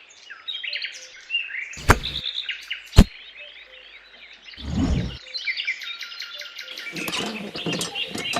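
Small birds chirping and trilling steadily. Two sharp clicks come about two and three seconds in, and there are dull low bumps around the middle and near the end.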